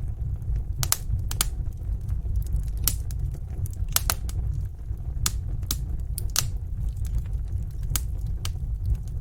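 Fire burning in a fireplace: a steady low rumble with irregular sharp crackles and pops, one or two a second.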